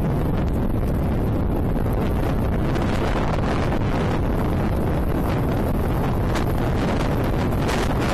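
Strong gusting wind buffeting the phone's microphone: a loud, steady low rumble of wind noise.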